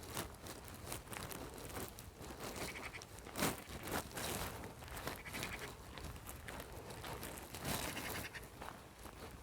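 Bleating livestock, a few short calls over a steady run of crackling and crunching, like movement on dry ground.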